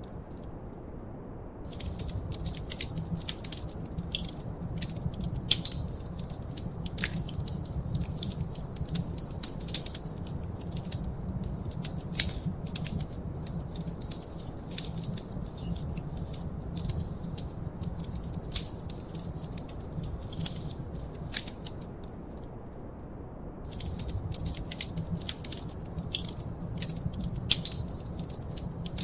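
Wood fire crackling in a fireplace: many irregular sharp pops and snaps over a low, steady rumble of burning. The crackling drops out briefly about a second in and again about three-quarters of the way through, leaving only the rumble.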